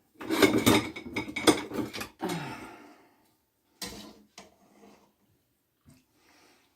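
Metal clatter and knocking of an Instant Pot's lid and stainless inner pot being handled after opening, busy for the first two or three seconds, then a few single knocks.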